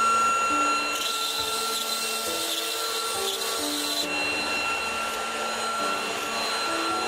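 CNC router spindle running with a steady high whine while the bit cuts wood, with a rasping cutting noise that swells about a second in and eases off a few seconds later.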